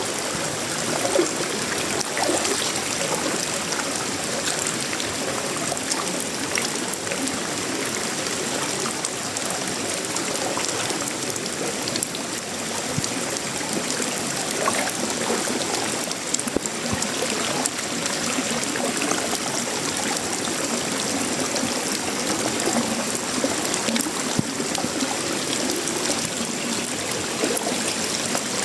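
Steady heavy tropical rain falling on a sheet-metal roof, wood and leaves: a dense, even hiss thick with small drop clicks.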